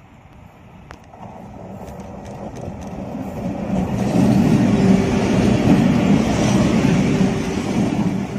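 A train running past, a steady rumble with a low hum that builds over the first few seconds, holds loud, and begins to fade at the very end.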